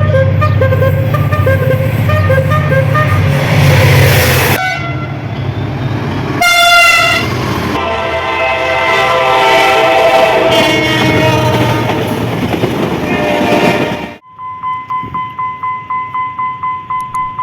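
Diesel locomotive passing with its horn sounding, layered blasts loudest about six and a half seconds in, over a deep engine rumble. About fourteen seconds in this cuts off suddenly to a steady tone with quick regular pulses.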